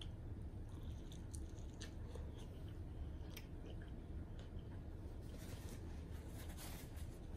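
Close-up chewing and wet mouth smacks of someone eating, with scattered soft clicks that grow thicker in the last couple of seconds, over a low steady hum.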